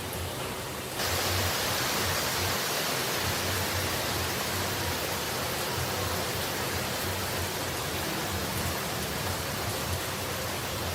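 Steady rush of falling water. About a second in it jumps louder and brighter, then holds even.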